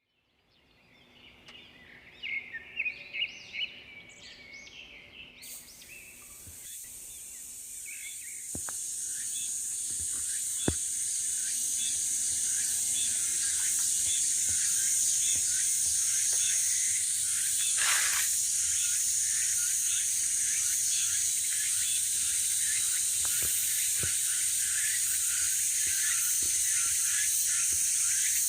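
Small birds chirping for the first few seconds, then a dense, steady, high-pitched insect chorus sets in suddenly about five seconds in and carries on, with a few faint ticks and clicks.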